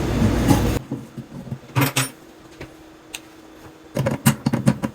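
Metal tools clicking and scraping against a sink basket strainer's locknut as it is tightened from below, in short irregular clicks and rattles with a quiet gap in the middle. Loud handling noise cuts off abruptly under a second in.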